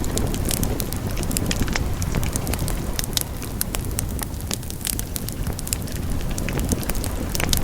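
Wood fire burning in a fireplace, with a steady low rumble of flames under many quick, irregular crackles and pops.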